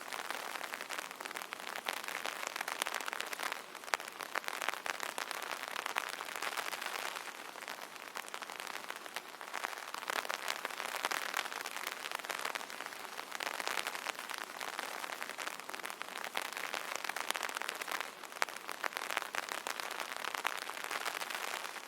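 Steady rain pattering on an umbrella's fabric canopy, a dense patter of individual drops that swells and eases every few seconds.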